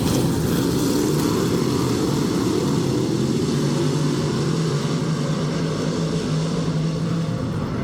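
A field of dirt-track race cars running laps on the oval: a steady, loud drone of many engines, holding at one pitch and easing slightly near the end.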